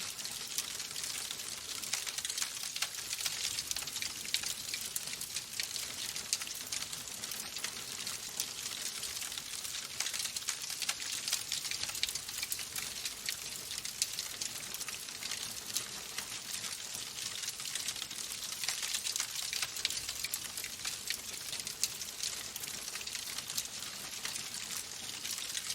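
Wood fire burning in a fireplace: a steady hiss of many small, dense crackles and pops.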